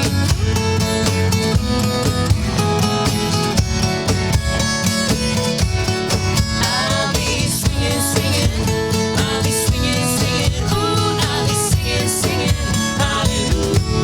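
Acoustic guitar strummed steadily while voices sing a country song. Near the end a chord is left ringing.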